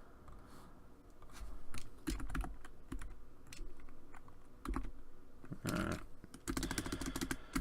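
Computer keyboard keys being typed in irregular clicks, with quicker runs of keystrokes in the second half.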